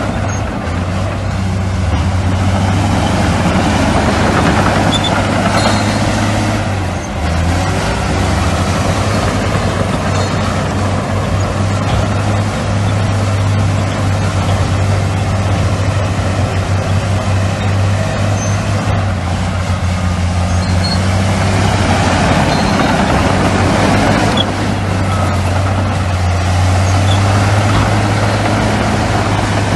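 Heavy diesel engine of earthmoving machinery running steadily, with a brief dip in the engine note about seven seconds in.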